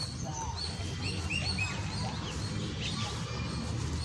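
Birds chirping, many short calls overlapping, over a low steady rumble.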